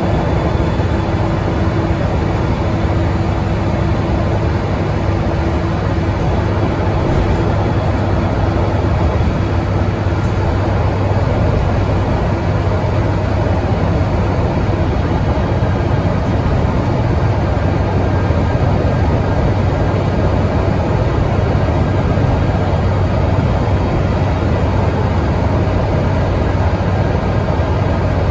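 Scania N94UD double-decker bus's diesel engine running steadily at full throttle, with a constant low drone and road noise, heard from on board.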